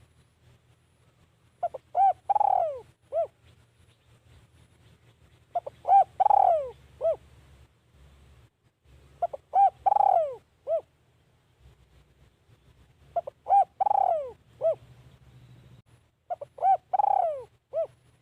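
Spotted dove cooing: five repeated song phrases about four seconds apart, each a couple of short coos, a longer falling coo and a short closing coo. It is the call of a decoy dove kept to lure wild doves.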